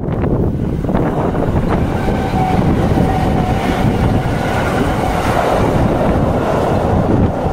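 Electric train crossing a steel truss railway bridge, a steady rumble mixed with heavy wind buffeting on the microphone. A faint steady whine rides over it from about two to five seconds in.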